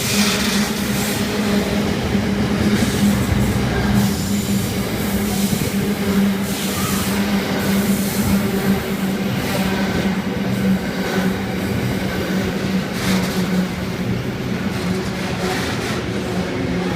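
Wagons of a long intermodal freight train rolling past at steady speed: continuous wheel-on-rail noise with a steady low hum and scattered clatters.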